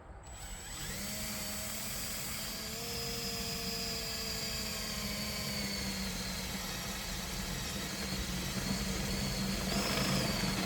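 Power drill running steadily, its bit boring a hole through the truck's sheet-metal cab floor. It starts about half a second in and grows slightly louder near the end.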